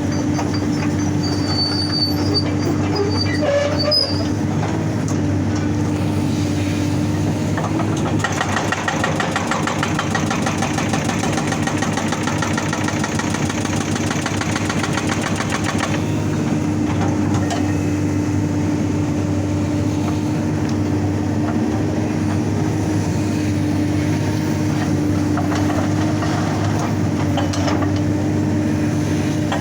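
Excavator's diesel engine running steadily. From about eight seconds in to about sixteen seconds in, its hydraulic rock breaker hammers rapidly at rock in a fast, even rhythm.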